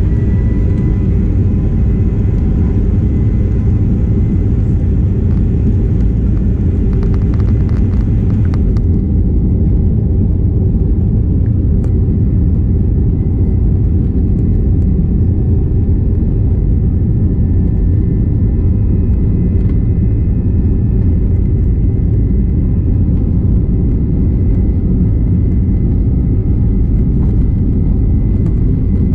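Steady, loud rumble of a Boeing 737-900ER's CFM56-7B jet engines and airflow, heard inside the airliner's cabin in flight, with faint steady engine tones above the drone.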